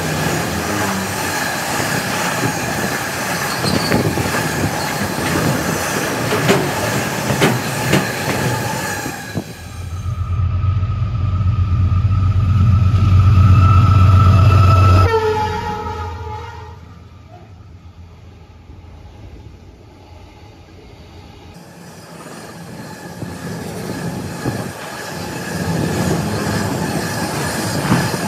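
Freight train passing at speed, its container wagons clattering by with a steady wheel squeal. Then the freight locomotive approaches with a loud low rumble and sounds a short horn blast, and later the wagons clatter past again.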